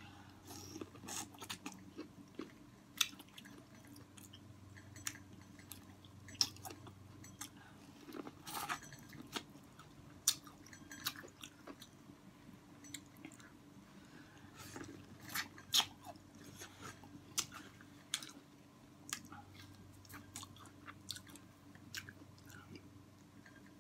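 Close-up chewing and mouth clicks of a person eating corn on the cob, with irregular sharp clicks spread through the whole time.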